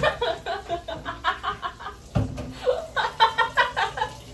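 People laughing in two runs of rapid 'ha-ha' pulses, with a single low thump about two seconds in.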